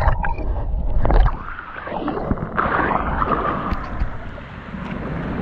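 Running stream water with wind buffeting the microphone, the rumble heaviest in the first second or so, with a few knocks.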